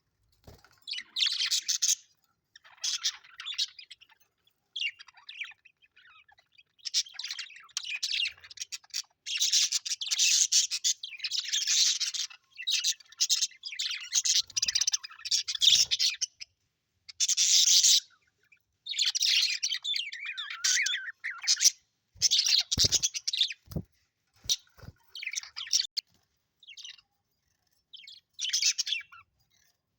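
Budgerigars chirping and chattering in bursts, with short pauses between them. A few short knocks come around three quarters of the way through.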